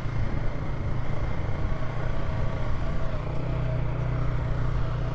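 Polaris ATV engine running steadily at low speed, a constant low hum with no revving.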